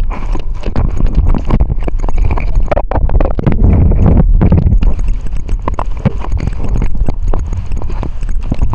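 Wind buffeting the microphone of a moving bicycle, with a heavy, gusting rumble and many irregular knocks and rattles.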